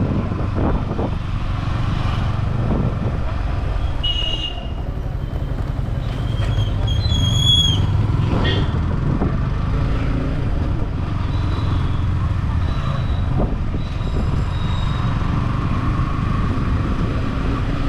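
Yamaha R15 V4 motorcycle riding through city traffic: a steady engine and road rumble. Short high-pitched tones cut in at about 4 s and again at about 7 s, with fainter ones near 14 s.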